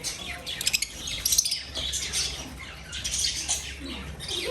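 A flock of pet birds chirping and squawking together, many short high calls overlapping, with a quick run of clicks just under a second in.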